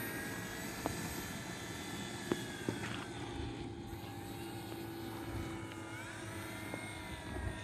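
Electric RC model airplane (E-flite Air Tractor) with its motor and propeller whining during a takeoff run. The pitch dips about three seconds in and rises again near the end as the throttle changes.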